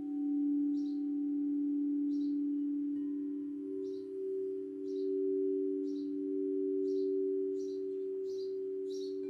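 Singing bowl ringing on after a strike, two close tones sounding together with a slow wavering swell in loudness. Over it a bird chirps about once a second, louder near the end.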